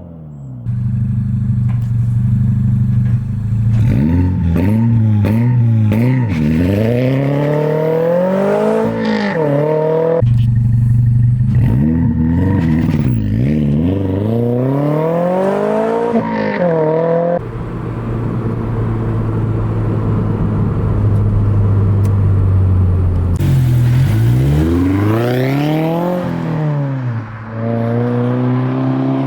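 2022 Toyota GR86's 2.4-litre flat-four through a Borla S-Type aftermarket exhaust, revving. The exhaust note holds steady for stretches and repeatedly climbs and falls in pitch, with abrupt jumps about ten seconds in and again some seven seconds later.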